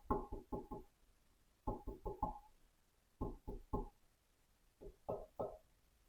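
Repeated sharp knocks in quick bursts of three or four, each with a slight ringing tone, separated by pauses of about a second.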